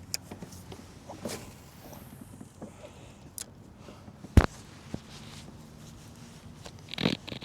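Scattered small clicks and knocks of gear being handled aboard a kayak over a low steady rumble, with one sharp knock about four and a half seconds in and a brief rustle near the end.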